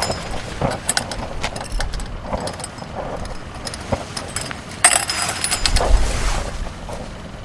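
Scattered clicks, clinks and knocks of small hard objects being handled, with a louder rustling clatter about five seconds in.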